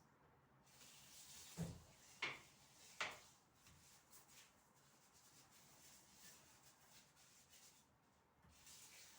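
Faint rubbing and handling sounds, with three light knocks in quick succession between about one and a half and three seconds in.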